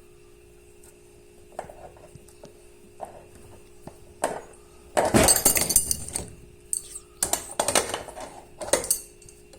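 Washing machine agitator mechanism being forced off its shaft with a puller: a few faint ticks, then a loud metallic crack and grating about five seconds in as it breaks loose, followed by several more sharp cracks near the end.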